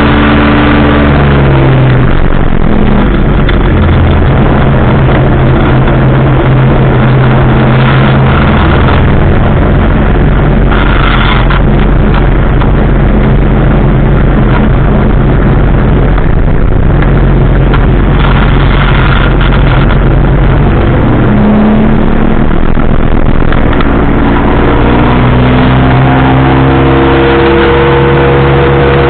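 Powered parachute's engine and propeller running loud in flight; the engine note drops about two seconds in, holds steady, then climbs back up near the end as the throttle is opened.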